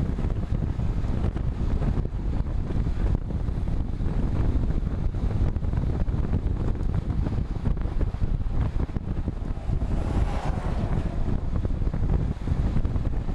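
Wind buffeting the microphone of a camera riding along on a road bike, a steady low rumble.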